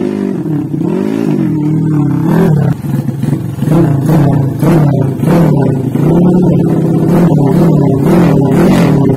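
Single-cylinder motorcycle engine, a 239cc two-valve big-bore in an XRM underbone dirt bike, revving, its pitch rising and falling again and again as the throttle is blipped.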